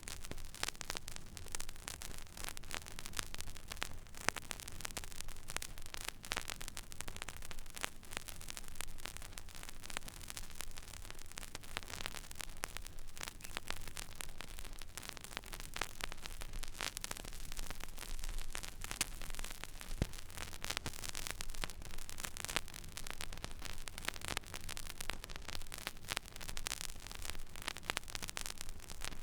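Stylus tracking an empty vinyl record groove: steady surface hiss with dense crackle and pops over a low hum, one sharper pop about two-thirds of the way through.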